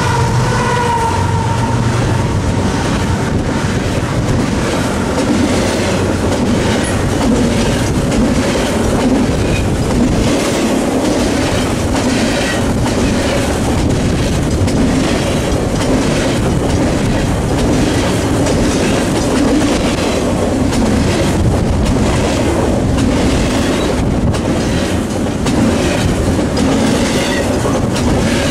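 BNSF double-stack container train passing at close range. The last of its GE diesel locomotives goes by in the first second, then the container well cars roll past with a steady rumble and a regular clicking from the wheels on the rails.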